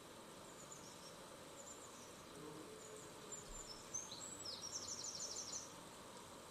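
Faint high bird chirps and short downward calls over a low steady hiss, ending in a quick trill about five seconds in.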